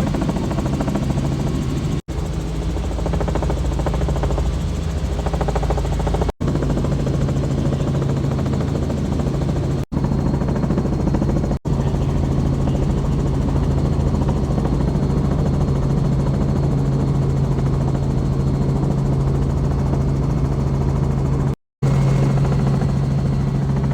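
Helicopter in flight, heard from inside the cabin: a steady, loud drone of engine and rotor with a constant low hum. The sound cuts out for a moment several times.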